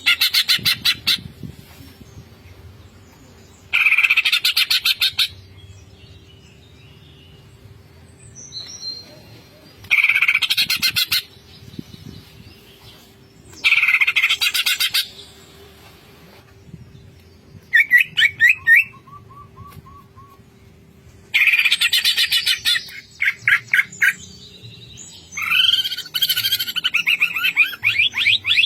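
Cucak ijo (green leafbird) singing in rapid bursts of fast chattering notes, each about a second long, repeated roughly every four seconds. Near the end it breaks into a longer run of varied song. A faint steady hum lies underneath.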